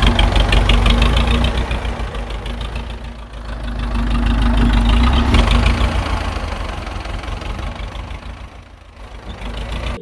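A mini tractor's engine running with a fast, even knocking beat. It grows louder around the middle and fades near the end.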